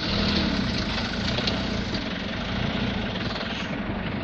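Mitsubishi Canter truck's diesel engine running steadily with a low hum.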